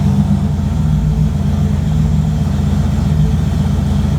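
Turbocharged Fox-body Mustang engine idling steadily while it warms up after a cold start.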